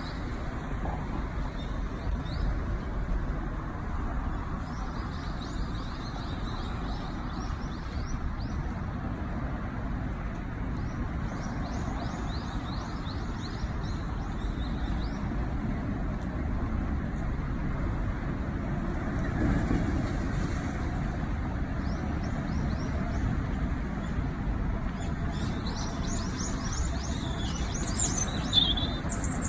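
Small songbirds chirping on and off over a steady low background rumble like distant traffic, with a burst of louder, quick calls near the end.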